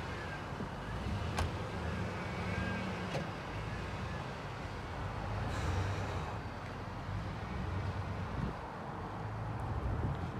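A vehicle engine running steadily at low revs, with one faint click about a second and a half in.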